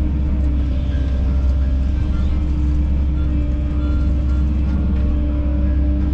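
Kobelco SK210 excavator's diesel engine running steadily under work, a heavy low drone with a steady hydraulic whine over it.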